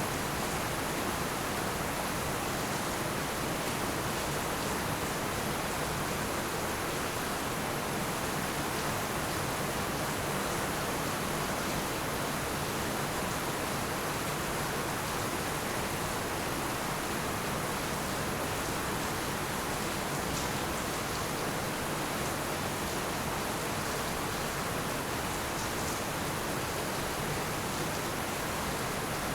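Heavy rain falling steadily, a dense, even hiss with no thunder and no distinct drops standing out.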